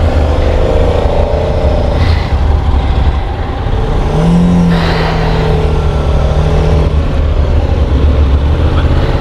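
Honda NC750 parallel-twin motorcycle engine pulling away and accelerating, its note rising and falling, over a heavy, steady rumble of wind and road noise.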